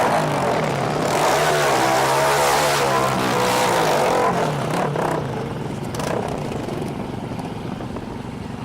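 Car engine revving, its pitch rising and falling, loud for about five seconds and then dropping back.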